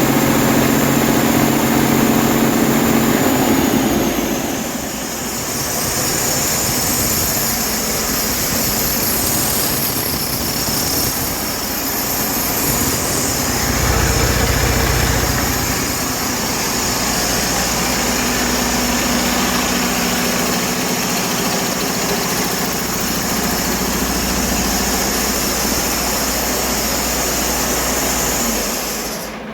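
Detroit Diesel DD13 inline-six diesel engine running on a test run. It is running faster for the first few seconds, drops back about four seconds in, and then runs steadily. This is a used engine that the seller says runs excellent.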